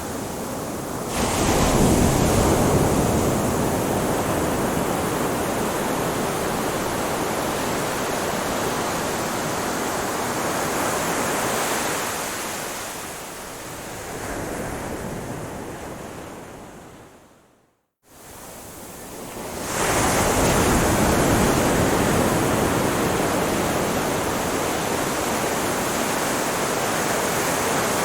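Ocean waves washing on a shore: a wave surges in about a second in and the surf hisses on. It fades away to a moment of silence about 18 seconds in, then a wave swells back in and the wash carries on.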